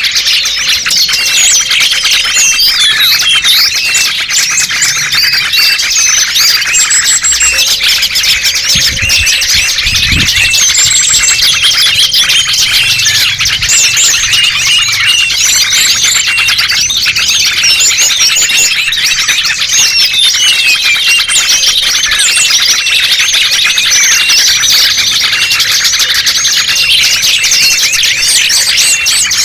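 Dense, unbroken chorus of many small songbirds chirping and calling over one another: a bird-lure recording for attracting small wild birds.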